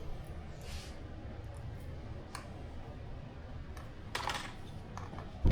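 Small plastic and metal model-plane parts and screws being handled during assembly: a few light clicks and a short rustle about four seconds in, over a low hum, with a sharper click right at the end.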